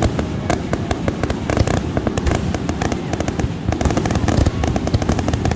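Fireworks going off continuously, a dense, rapid crackle of many small pops and bangs with no pause.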